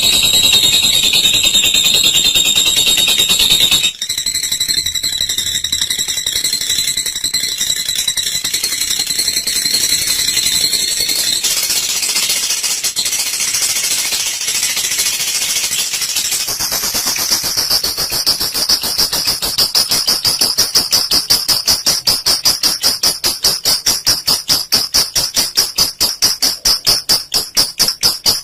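Olive lovebird's long 'ngekek' chatter: a shrill, high trilling that changes abruptly about four seconds in, then in the second half a fast, even run of sharp high notes, several a second.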